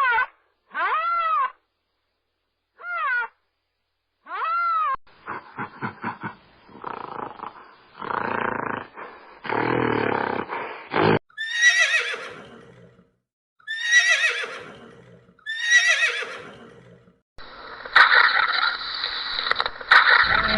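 A run of different animal calls one after another: four short arched calls, then rough rasping calls, then three loud falling calls about two seconds apart.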